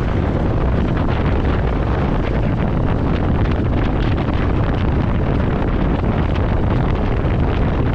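Wind buffeting the microphone over the steady road noise of a moving vehicle.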